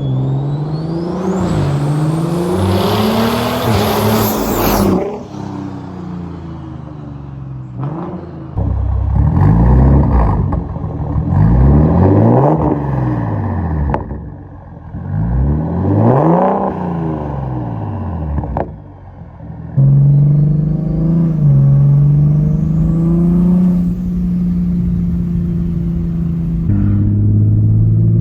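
Toyota MKV Supra's turbocharged straight-six, fitted with a big Precision 6466 turbo with T51R mod, a catless downpipe and an AWE Track catback. It accelerates hard for about five seconds with a high turbo whistle climbing in pitch, then is revved up and down about four times. For the last several seconds it runs at a steady low speed.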